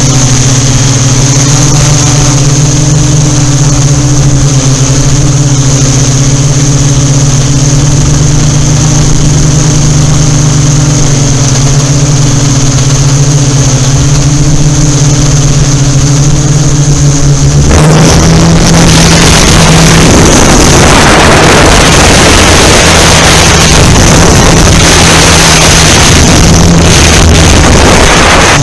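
Yuneec Typhoon Q500 4K quadcopter hovering, its rotors making a steady low drone with a thin high whine. About 18 seconds in, loud wind rush on the microphone, which has no wind filter, joins it and the rotor tone rises slightly.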